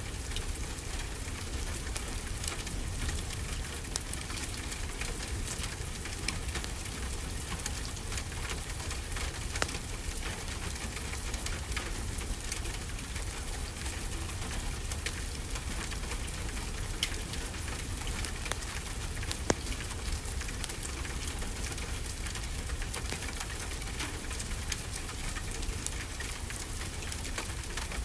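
Steady rainfall with a low rumble underneath, dotted with scattered sharp pops and crackles from a wood fire, a few louder ones standing out.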